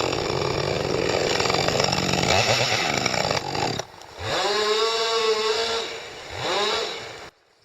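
Chainsaw running at high revs while cutting. About four seconds in the engine note drops briefly, then rises and falls again twice. It cuts off suddenly near the end.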